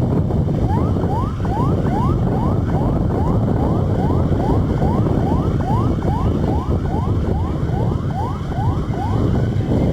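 Siren sounding in rapid yelp mode: short rising sweeps, about two or three a second, over heavy wind noise on the microphone.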